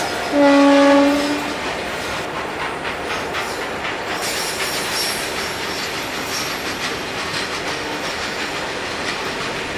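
A locomotive horn gives one blast about a second long near the start, followed by the steady running noise of a train with wheel clatter on the rails.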